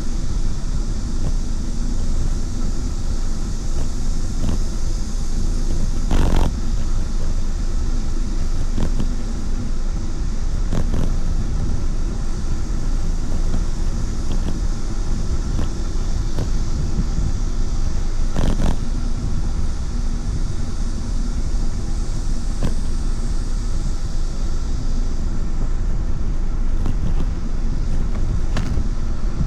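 Steady wind buffeting on the microphone and rolling road rumble while riding, with a few sharp knocks from bumps. The loudest knock comes about six seconds in and another at about eighteen seconds.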